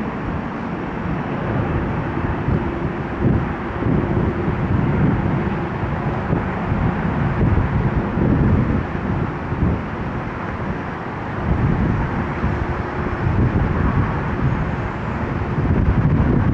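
Jet airliner engine noise, a steady rumble, with wind buffeting the microphone.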